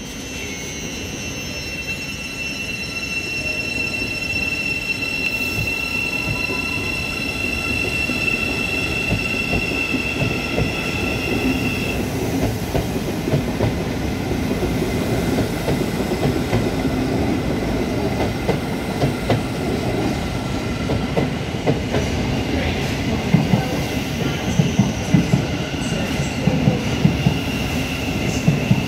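Thameslink Class 700 electric train running slowly past along the platform. For the first twelve seconds or so a set of steady high whining tones sits over the wheel rumble. After that there is rumble alone, with sharp wheel clicks over the rail joints coming more often near the end.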